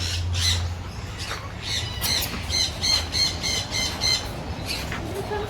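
Aviary birds squawking: scattered harsh calls, then a quick run of repeated calls, about four a second, from about two to four seconds in.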